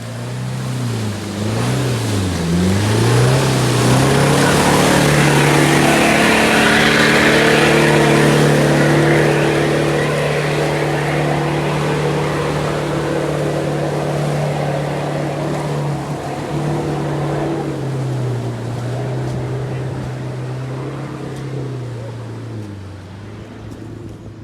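An off-road 4x4's engine revving hard under load, climbing in the first few seconds, held high for about a dozen seconds, then easing off. A loud rushing splash of tyres churning through mud and water rides over it, strongest a few seconds in.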